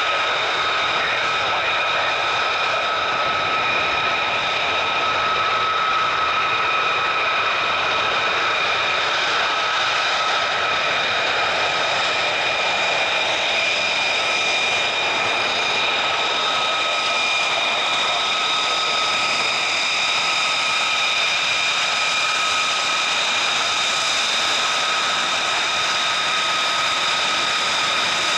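Military jet engine running steadily, a broad roar with a steady high whine held at one pitch throughout.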